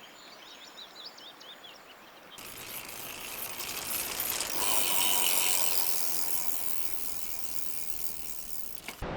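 Bicycle freewheel hub ticking rapidly as the bike coasts, coming in about two seconds in, growing louder toward the middle and then easing off. Faint bird chirps come before it.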